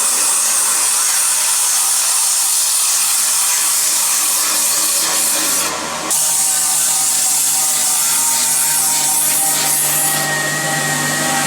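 Corner seam grinding machine running, its abrasive head grinding the welded corner seam of a sheet-metal box: a steady motor whine under a dense, hissing grind. The sound changes abruptly about six seconds in, and a low steady hum joins it.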